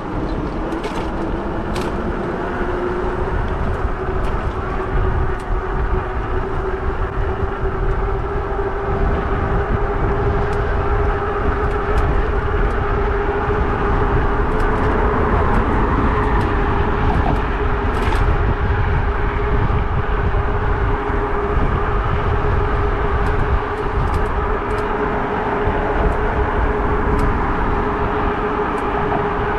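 Fat tire e-bike riding along at speed: a steady whine from the motor and tyres that rises a little early on and then holds, under a heavy low rumble of wind buffeting the microphone.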